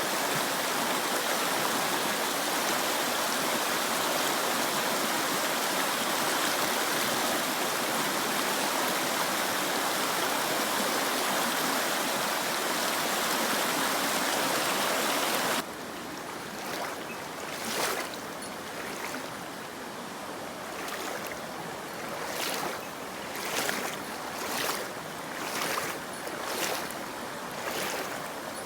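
Mountain stream rushing steadily. About halfway through it cuts off abruptly to quieter flowing water, with a run of soft swishes about once or twice a second.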